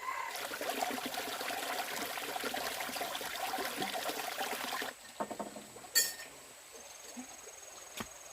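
Water running or pouring, a steady splashing hiss for about five seconds that cuts off suddenly, followed by a few sharp knocks, the loudest about six seconds in.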